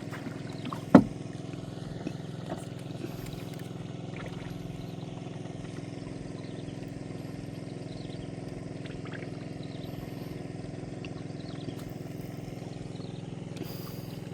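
A small engine running steadily, with a single sharp knock about a second in.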